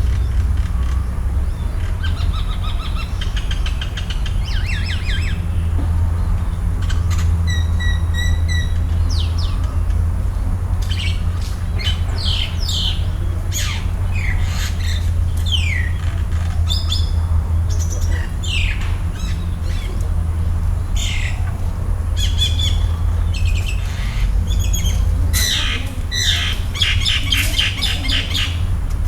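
Several birds chirping and calling: many short chirps and quick falling whistles, busier in the second half, over a steady low rumble.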